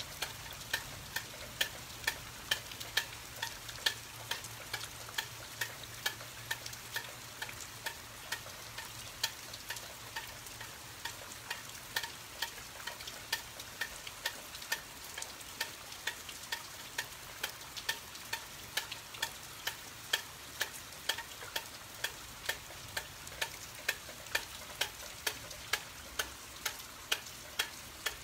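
Steady hiss of rain falling, with a regular ticking about two or three times a second, and a faint low hum that fades out about ten seconds in.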